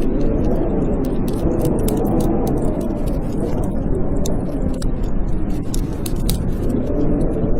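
Blizzard wind howling, a steady low rush with slowly wavering moans, mixed with a wood fire in a fireplace crackling in sharp pops throughout.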